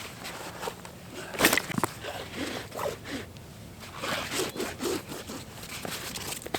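Irregular rustling and scraping, with one sharp, louder scrape about a second and a half in.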